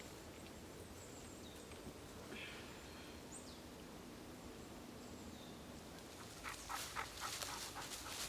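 Quiet woodland ambience with a few faint, high bird calls, each sliding down in pitch. About six and a half seconds in, close rustling and crackling begins and grows louder.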